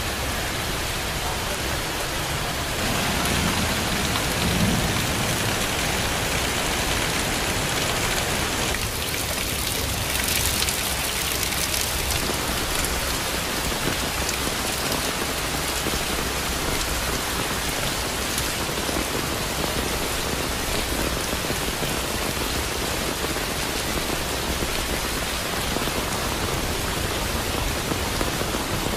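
Heavy tropical downpour falling steadily, pattering on a clay-tiled roof and pouring off the eaves.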